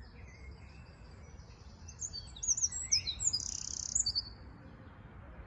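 Eurasian wren singing: a burst of rapid, high chirping notes with a fast trill in the middle, starting about two seconds in and lasting around two seconds.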